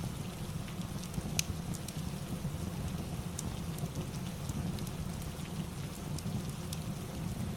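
Ambience of steady rain with a low rumble underneath, mixed with a wood fireplace crackling in scattered sharp pops.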